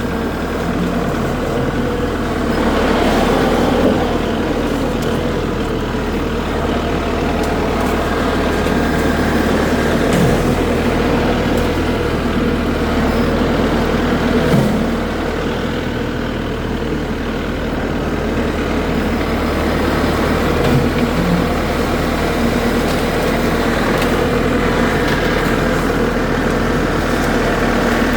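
Kubota tractor's diesel engine running steadily under work, with a few brief swells in loudness.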